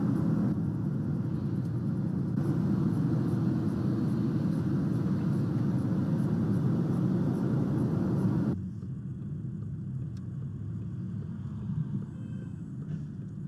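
Steady low rumble of a moving car, engine and road noise together. It drops to a quieter level about eight and a half seconds in.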